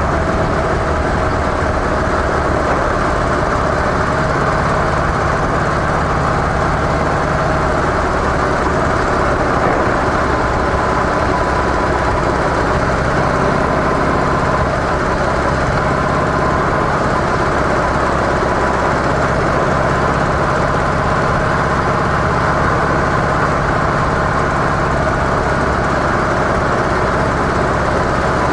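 Harley-Davidson CVO Softail's air-cooled V-twin running steadily through its stock mufflers, the pitch holding almost level with only small shifts.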